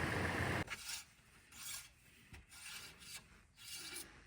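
The 2019 Toyota 4Runner's engine idling cuts off abruptly about half a second in. Then come five or six short, faint rasping rubs: the oil dipstick being drawn out of its tube, wiped and slid back in to check the level after the oil change.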